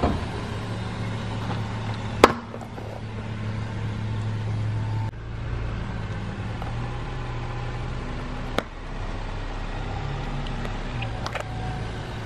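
Car engine running at low speed as the car creeps forward over a squishy toy, a steady low hum. A sharp click comes about two seconds in and another past the middle.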